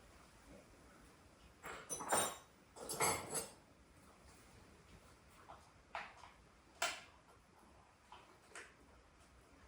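Metal objects clinking and clattering during hands-on workshop work, loudest in two clusters about two and three seconds in, then a few lighter single clicks.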